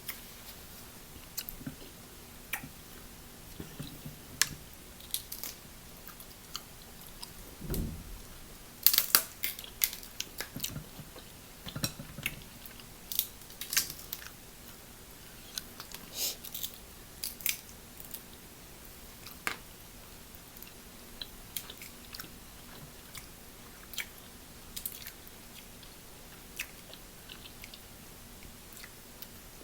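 Close-up eating sounds of a person chewing and biting seafood-boil food, with many scattered sharp clicks and cracks. They come thickest about a third of the way in.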